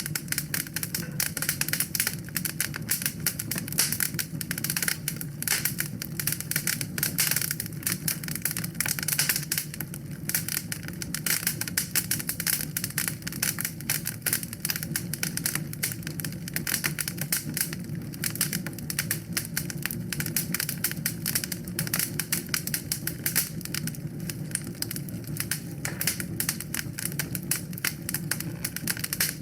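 Wood fire crackling continuously in a fireplace: a dense run of sharp pops and snaps over a steady low rumble of burning.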